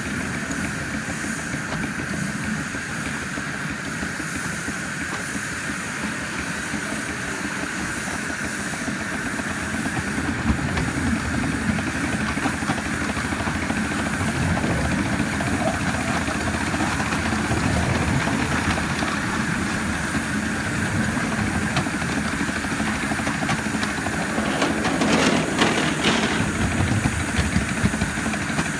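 7¼-inch gauge live-steam model of a Baldwin C-19 locomotive running, with a steady steam hiss over the rumble of the engine and wheels. It grows a little louder about ten seconds in, with a brief louder burst near the end.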